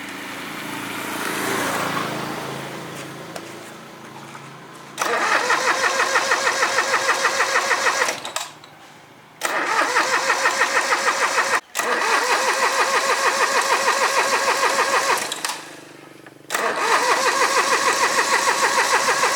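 Engine's electric starter cranking in four bursts of a few seconds each, a pulsing whine of about five pulses a second that cuts off suddenly each time, without the engine running on: repeated attempts to start an engine that won't catch.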